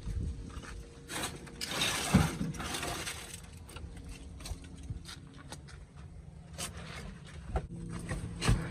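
Scattered knocks and scraping sounds of mechanical work, over a faint steady hum.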